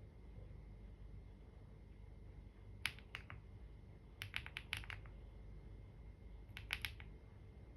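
Computer keyboard typing: a few keystrokes in three short runs, with pauses between them, over a faint steady hum.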